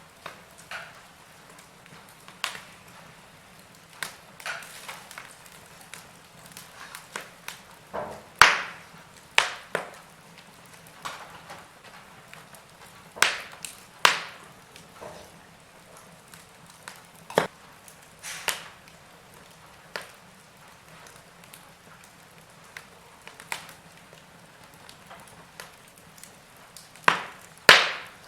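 Wood fire crackling in a fireplace: irregular sharp pops and snaps over a soft hiss, with the loudest pops about eight seconds in, around fourteen seconds, and near the end.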